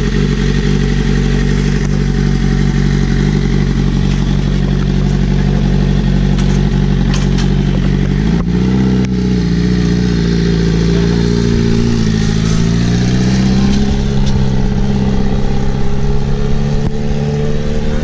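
Motorcycle engine idling steadily, then about eight seconds in it revs and pulls away, its pitch rising and falling as it accelerates.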